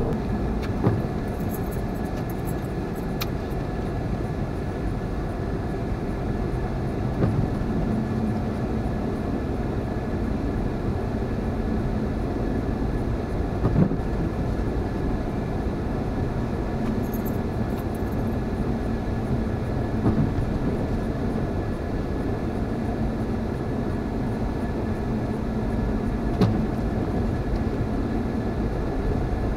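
Steady cabin noise of a Honda CR-V driving on four snow tyres: engine and tyre rumble, with a few faint knocks now and then.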